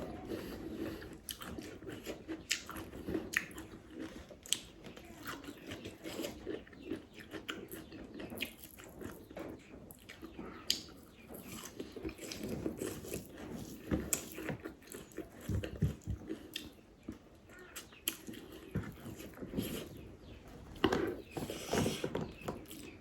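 A person eating close to the microphone: chewing and biting food with wet mouth sounds and irregular small clicks and crunches.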